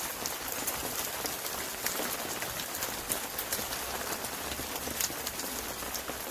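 Steady rain falling, with many small sharp drop impacts ticking over an even hiss.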